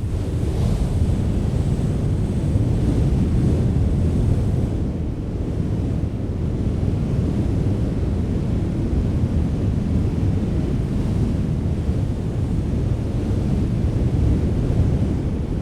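Strong wind blowing steadily, a deep low rush with small swells in strength.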